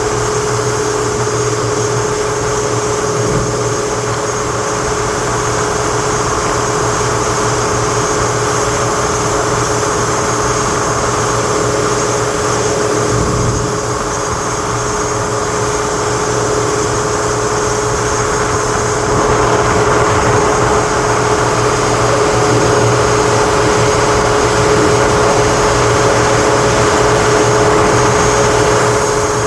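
Engine running steadily: a constant hum with a held tone over an even rushing noise, getting a little louder about two-thirds of the way through.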